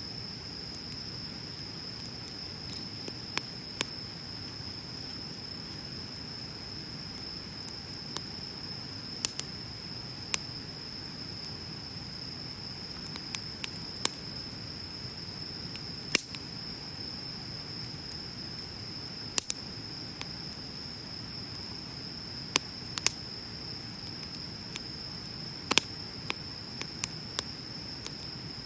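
Wood bonfire crackling: sharp pops and snaps at irregular intervals over a low, even rush of the flames. A steady high-pitched insect trill runs underneath.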